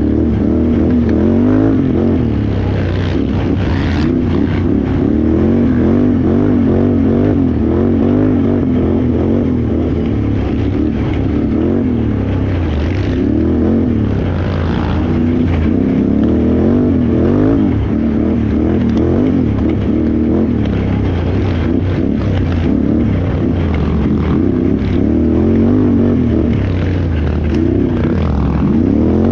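Can-Am Renegade XXC 1000R ATV's V-twin engine revving up and down again and again under hard off-road race riding, the pitch rising and falling every second or two as the throttle is worked.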